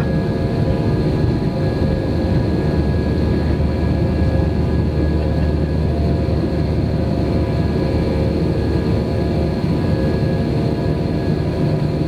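Steady cabin noise of an Airbus airliner: a deep rumble from its jet engines and the airflow, with several steady hum tones over it.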